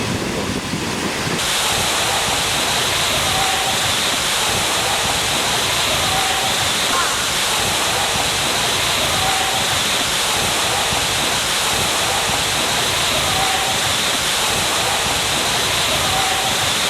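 Steady rush of water falling from the 80-metre Wli waterfall into its pool. It grows louder and brighter about a second and a half in, then holds even.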